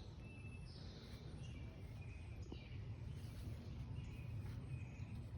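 Birds chirping faintly with short, high calls scattered throughout, over a steady low outdoor rumble.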